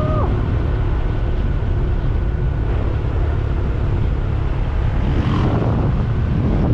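Wind buffeting the microphone on a moving motorcycle, a steady low rumble with no break.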